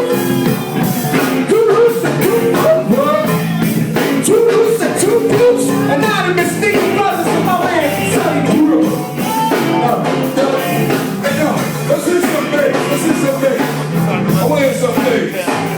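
Live rock band jamming a loud, steady groove on drum kit, electric bass and electric guitar.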